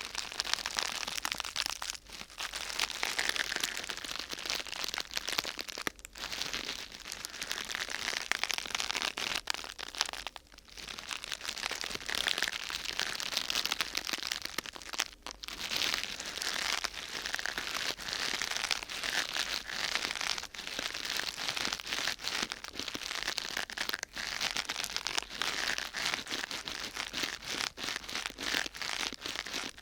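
Close-miked crinkling and crackling of a thin sheet of crinkly material being handled and crumpled, a dense run of small crackles with short pauses every few seconds.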